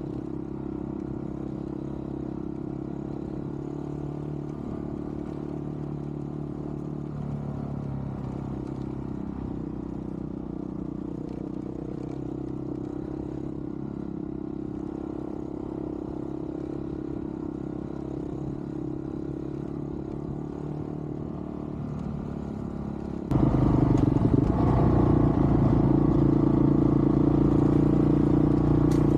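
Dual-sport motorcycle engine running at a steady speed while riding a dirt trail. About 23 seconds in the sound abruptly becomes much louder, still steady.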